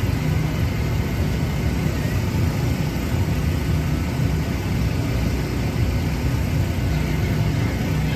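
A steady low engine rumble with a faint constant hum.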